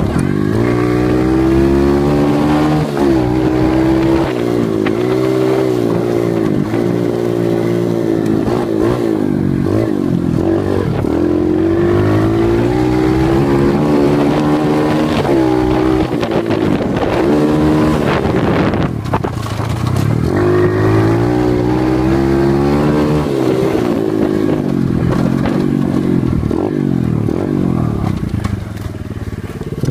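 Dirt bike engine under way, revving up and dropping back again and again as the throttle is opened and closed, its pitch rising with each burst. A few knocks and rattles from the bike come through around the middle.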